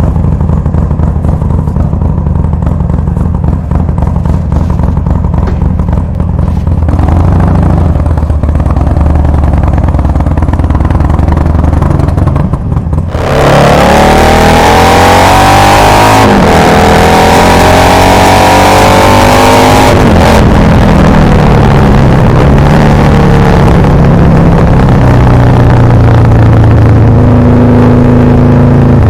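Harley-Davidson Sportster 883's air-cooled V-twin running at a steady low idle. About thirteen seconds in it gets suddenly much louder and is revved, its pitch climbing and falling several times before settling back toward a steadier run.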